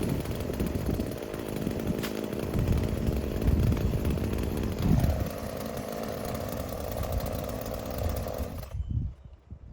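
Chainsaw running while cutting the tree, its note settling to a steadier pitch about halfway through, then cutting off suddenly near the end.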